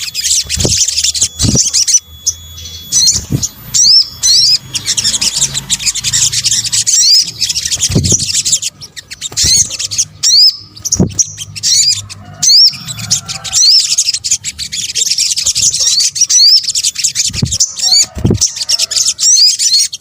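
Sunbirds calling and singing in a dense, continuous stream of rapid, high-pitched chirps and quick rising and falling notes, several calls overlapping. A few short low thumps come through now and then.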